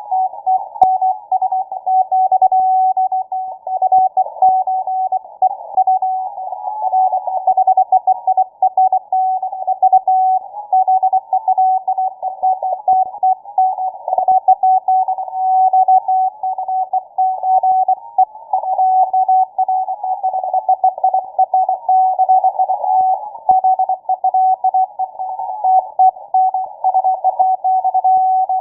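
Morse code received on a shortwave radio: a single beeping tone keyed on and off in rapid dots and dashes, heard through a narrow receiver filter with a band of hiss and crowding signals around it.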